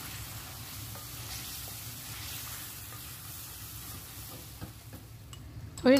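Thick oxtail karahi gravy sizzling steadily in a metal karahi as it is stirred and fried down (bhuna), with a few light scrapes of the spoon against the pan.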